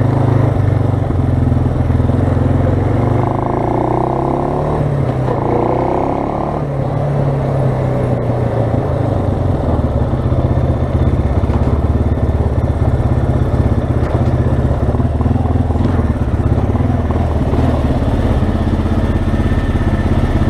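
2006 Suzuki Eiger 400 ATV's single-cylinder four-stroke engine running. Its pitch shifts up and down a few seconds in, then holds steady.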